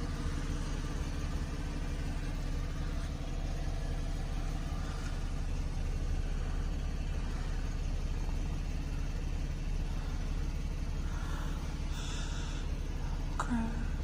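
A 2012 Chevrolet Camaro's engine idling, heard from inside the cabin as a steady low hum. A brief faint squeak comes near the end.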